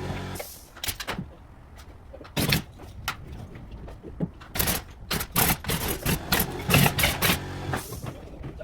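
Carpentry work: a run of sharp, irregular knocks and bangs, with a brief buzzing hum at the start and again near the end.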